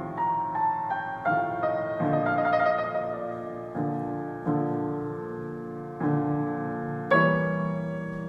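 Piano or keyboard played: single notes and chords struck about once a second, each ringing and fading, with a faint steady low rumble underneath.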